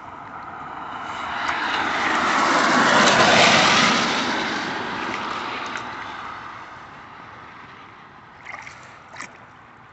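A vehicle driving past on the wet road, its noise swelling to a peak about three seconds in and then fading away.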